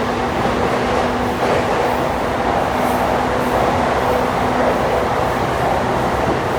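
E235-1000 series electric train running through a tunnel: a steady rumble of wheels and running gear, with a steady hum that drops out briefly and returns.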